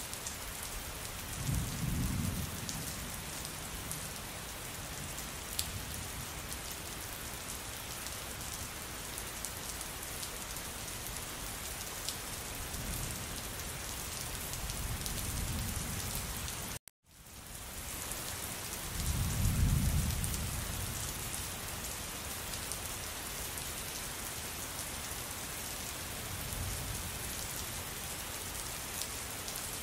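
Steady rain falling with low rolls of thunder, four of them, the loudest about two-thirds of the way through. The sound cuts out completely for a moment just past the middle.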